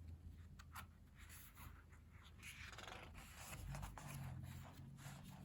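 Faint rustling of paper and a few light taps as the pages of a small photobook are handled and turned.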